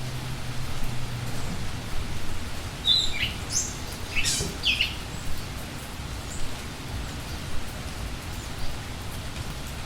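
Steady rain falling, with a songbird giving a short burst of high chirps about three to five seconds in.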